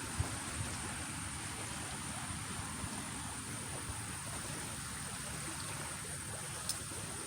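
Steady outdoor noise of wind and moving water, with a thin, steady high tone throughout and one faint click near the end.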